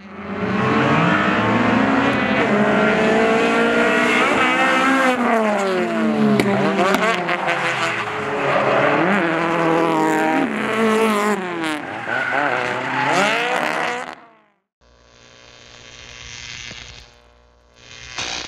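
Drift car engines revving hard, their pitch climbing and dropping again and again, with tyre squeal. About fourteen seconds in the sound cuts off abruptly, and a much fainter sound swells and fades.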